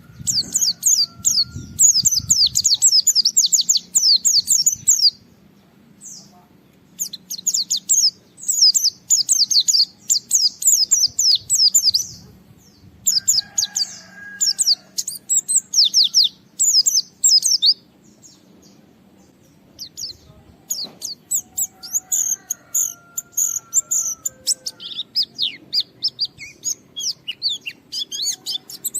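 White-eye (pleci) singing in rapid, high chittering phrases a few seconds long with short pauses between, with a few lower drawn-out whistles mixed in. This is full, challenging 'gacor' song of the kind used to goad other white-eyes into singing.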